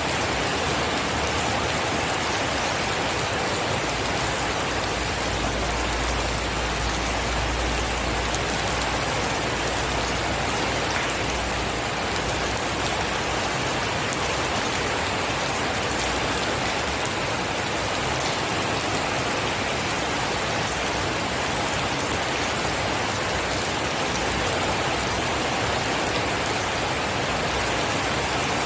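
Steady, heavy rain falling, an even dense hiss of drops. A low rumble sits under it from about five to eleven seconds in.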